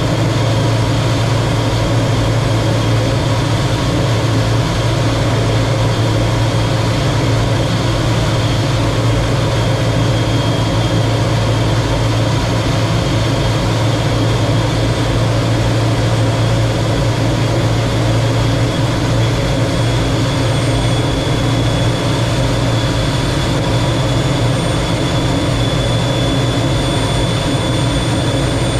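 Lockheed T-33 jet trainer's Allison J33 turbojet running, heard from the cockpit as a loud, steady rush with a low hum and a thin high whine.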